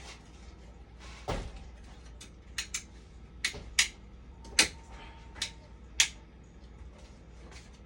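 A string of sharp clicks and knocks, about seven, with a duller thump a little over a second in, over a steady low hum: small tools and parts being handled on a workbench.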